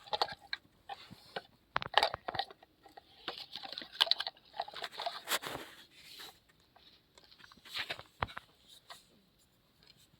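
Small plastic toys clattering and scraping, with irregular clicks and short scrapes.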